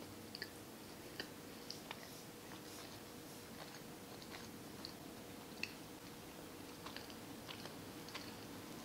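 A person chewing a mouthful of egg-and-cheese breakfast sandwich with closed lips, close to the microphone: quiet, irregular wet mouth clicks every second or so.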